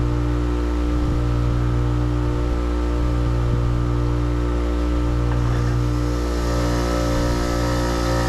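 Steady, even machine hum: a motor or engine running at constant speed, its pitch unchanging throughout.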